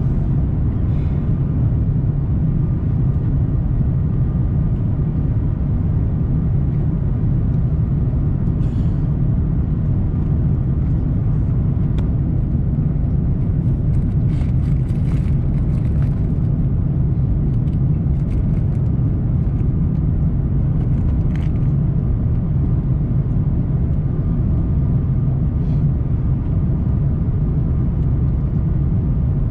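Steady low rumble of an Airbus A340-300 heard from inside the passenger cabin in flight: engine and airflow noise, with a few faint ticks and rattles around the middle.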